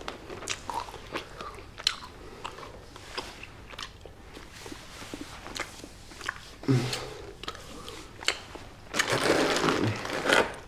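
A person chewing candy close to the microphone, with irregular crunching, smacking clicks throughout that grow denser and louder near the end.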